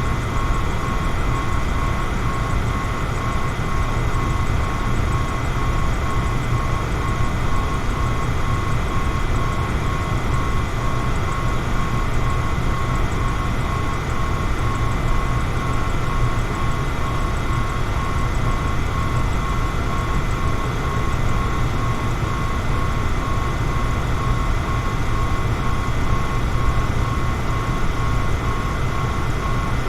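Electric fan running steadily: an even rush of air with a low rumble and a thin, constant whine on top.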